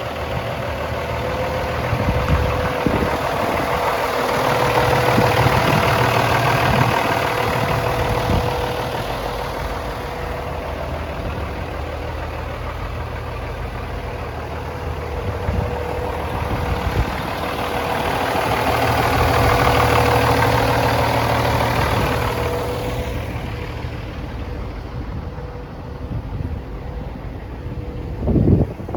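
Cummins ISX inline-six diesel engine of a 2008 Kenworth truck idling, swelling louder twice for a few seconds. A short knock comes just before the end.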